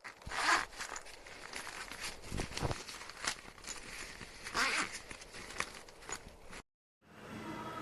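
Travel bag zipper being pulled, two longer rasping zip strokes about half a second and nearly five seconds in, with clicks and fabric rustling between them. The sound cuts off near the end and a low steady hum follows.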